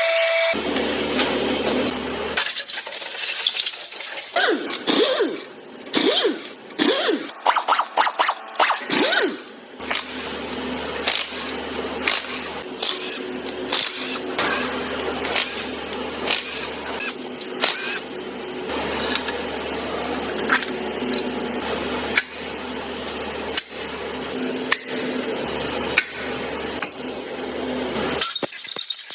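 Workshop noise from engine assembly: many sharp metal clicks and knocks from parts and tools. A background hum cuts in and out abruptly several times.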